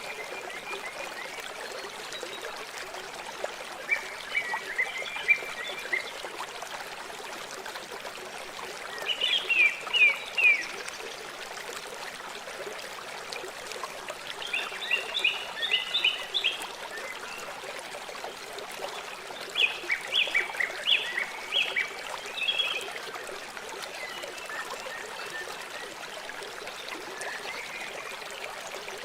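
River water flowing steadily, with a bird calling in short runs of quick chirps every few seconds.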